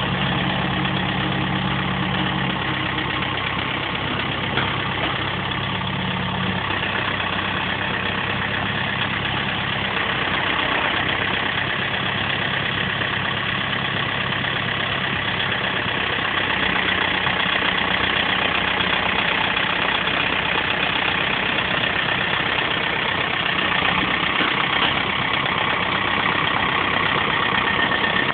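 Tractor engine running steadily under load, joined by a thin, steady high whine from about halfway through.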